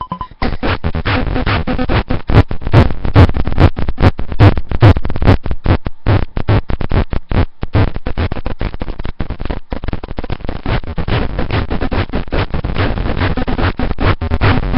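Keyboard played through a Degrader Shifter noise pedal, which turns the input into a square wave split into four octaves and degrades it. The result is harsh, distorted fuzz broken by rapid stuttering dropouts; it kicks in loudly about half a second in.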